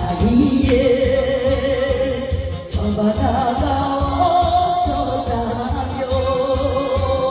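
Korean trot song: singing in long, wavering notes over a backing track with a steady bass beat about twice a second.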